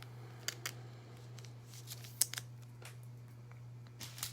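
Hands handling trading cards and their packaging: scattered light clicks and taps, the sharpest about two seconds in, over a steady low hum.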